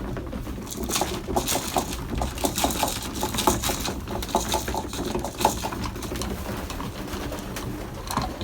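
Racing pigeons in a loft cooing, with a run of quick, irregular clicks and taps starting about a second in and lasting several seconds.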